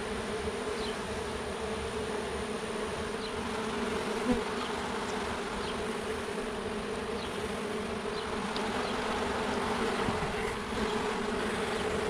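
A mass of honey bees buzzing in a steady, even hum around a freshly cut-down exposed comb, with a brief knock about four seconds in.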